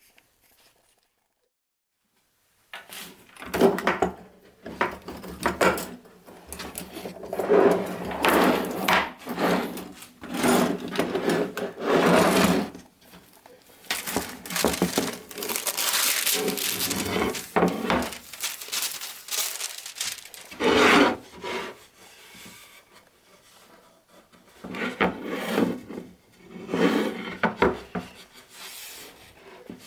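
Sandpaper rubbed by hand over a glued-up wooden piece in repeated, uneven strokes, cleaning it up. It begins after a short silence of about two and a half seconds, with a lull a little past the two-thirds mark.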